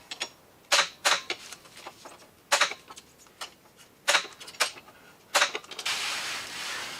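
Sharp metallic snaps and clicks from a spot-welding stud dent puller working a dented steel car door, about seven at irregular spacing, followed near the end by about a second of steady hiss.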